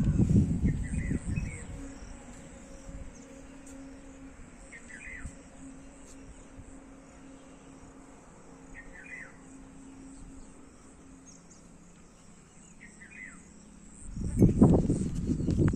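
A bird giving a short call four times, about every four seconds, over a faint, steady high insect trill. Low rumbling noise on the microphone covers the first second or so and returns near the end.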